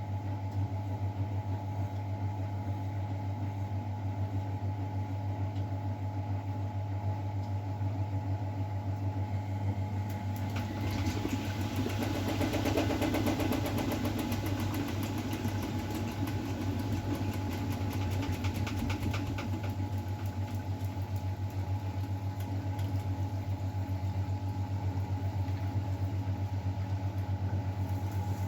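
Miele Novotronic W912 washing machine running mid-programme: a steady low motor hum throughout, with a louder stretch of hissing, crackling noise from about ten to twenty seconds in.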